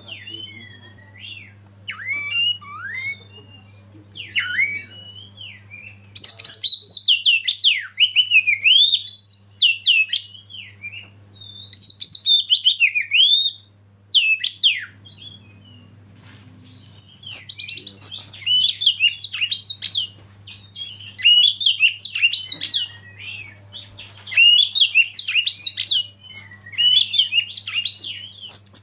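Oriental magpie-robin singing: loud, rapid runs of varied sweeping whistles and chirps in bursts of a few seconds, with quieter, sparser phrases in between, over a steady low hum.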